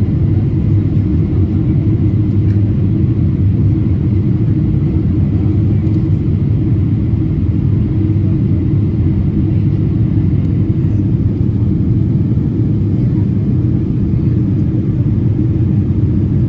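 Steady low rumble of a Boeing 777-300ER in flight, heard from inside the cabin: engine and airflow noise that stays even throughout.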